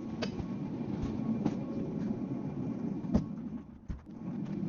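A steady low rumble with about half a dozen scattered knocks and thuds at irregular intervals, typical of items being handled and carried.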